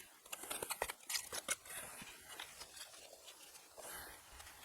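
Faint scraping and light clicks of fireclay bricks being handled and fitted as they are glued together with mastic.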